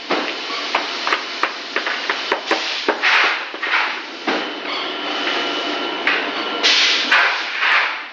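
Extruder machine working: irregular knocks and clatter, with a hissing burst every few seconds. A faint steady whine comes in about halfway through.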